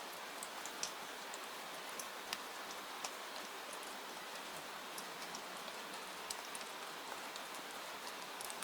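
Steady rain falling, an even hiss with scattered sharp ticks and pops, several a second, sprinkled through it.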